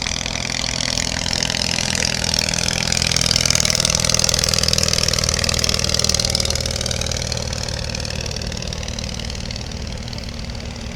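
English Electric Wren's tiny ABC flat-twin engine droning as the light aeroplane flies past. It grows loudest a few seconds in, its pitch shifting as it passes, then fades slowly.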